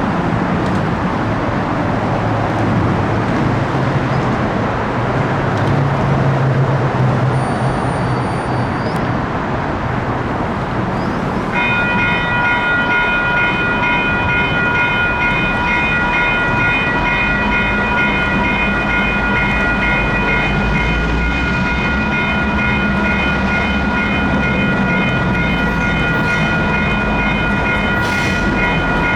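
Electronic railroad-crossing bells (WCH Type 4) start ringing abruptly about twelve seconds in and keep ringing as a steady, rapid high-pitched chime. Before they start there is a steady noisy background. From about eighteen seconds the low rumble of an approaching diesel locomotive, a GP38-2, builds beneath the bells.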